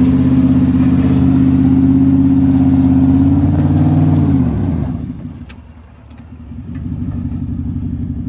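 Pickup truck engine held at high revs for about four seconds, rising slightly, then dropping off. A quieter engine keeps running afterwards.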